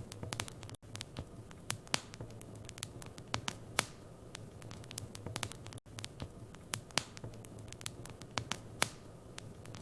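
Wood fire crackling in a fireplace: irregular sharp pops and snaps over a low steady hum.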